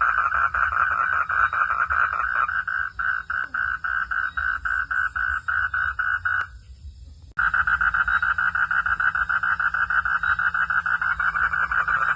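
A frog calling in a fast, steady pulsing trill, several pulses a second. It breaks off about six and a half seconds in and comes back abruptly under a second later.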